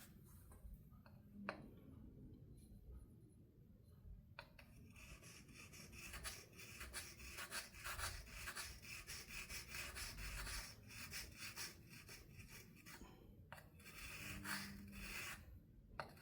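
A fret-dressing tool rubbed in quick back-and-forth strokes over a guitar fret end, starting about four seconds in and pausing briefly near the end. It is a touch-up to smooth and round the fret's edge.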